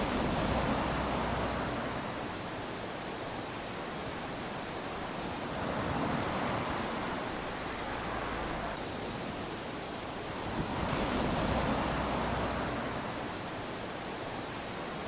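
Small ocean waves lapping onto a sandy beach, a steady wash of surf that swells as each wave comes in, about every five to six seconds.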